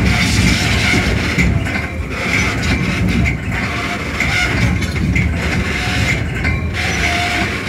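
Metra commuter train running on the rails, heard from inside its cab car: a steady low rumble of wheels and track with a steady high-pitched tone over it.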